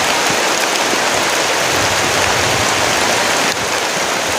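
Heavy rain pouring down, a loud, steady hiss. It drops a little in level about three and a half seconds in.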